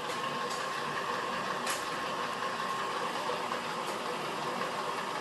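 Lockformer roll-forming machine running steadily, its motor and forming rolls giving a constant hum with a steady tone. A few short sharp metallic clicks come through, the loudest about a second and a half in.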